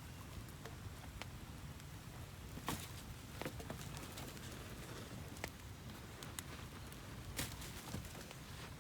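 Irregular sharp clicks and snaps, a few louder ones scattered through, over a steady low rumble.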